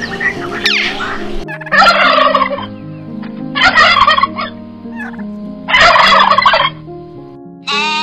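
Turkey gobbling three times, each gobble about a second long, over steady background music. A goat bleats just at the end.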